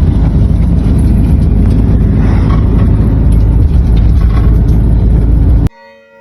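Steady, loud low rumble of a vehicle on the move, road and engine noise. It cuts off suddenly near the end, and faint ringing tones follow.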